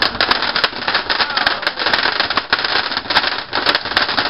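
Firework crackling: a dense, irregular run of rapid sharp pops and crackles.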